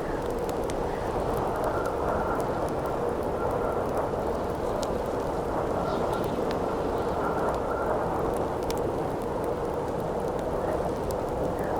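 Steady wind with a faint howling tone, over a crackling campfire with scattered small pops.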